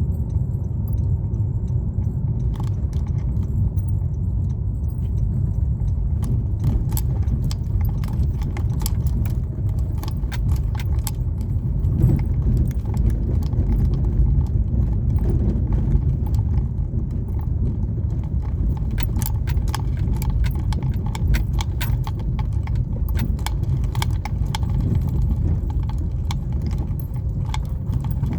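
A moving car's steady low road rumble, with frequent small clicks and jingles from something loose rattling as the car rides over rough pavement.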